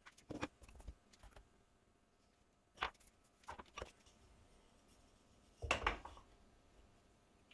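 A few short, light clicks and knocks of things being handled, spaced out by quiet: the loudest come shortly after the start, about three seconds in, and about six seconds in.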